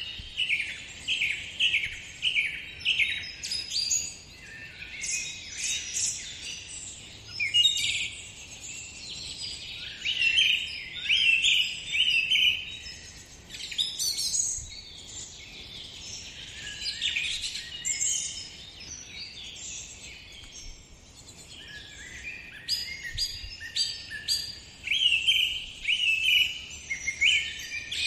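Small birds chirping and singing, many short high calls overlapping, with a run of quickly repeated notes at the start and again near the end.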